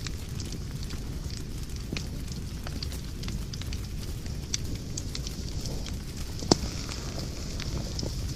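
Wood fire burning in a fireplace, crackling steadily over a low rumble of flame, with scattered sharp pops; the loudest pop comes about six and a half seconds in.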